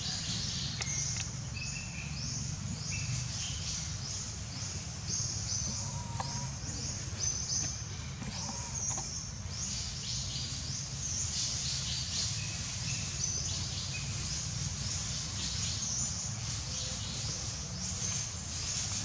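Birds chirping: many short, high, slightly falling chirps in quick succession, over a steady low rumble.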